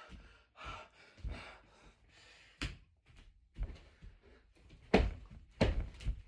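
A few dull thumps and knocks at uneven intervals, the loudest near the end, with softer breathy noise between them.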